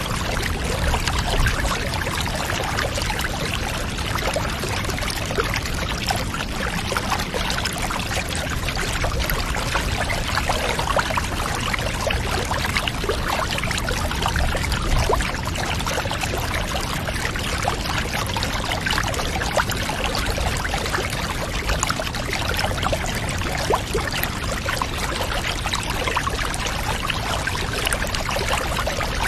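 Water running steadily into a bath: a continuous pouring and trickling, with many small splashes throughout.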